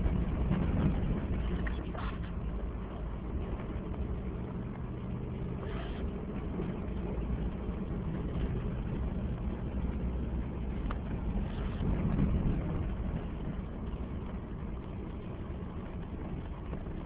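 A vehicle's engine and tyre noise while driving, a steady low drone with no sharp changes.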